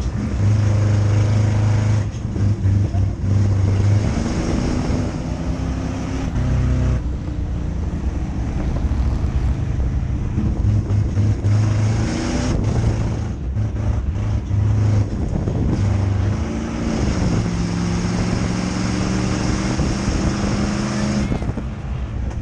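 Crown Victoria race car's V8 engine running at speed on hot laps, its pitch rising and falling with the throttle.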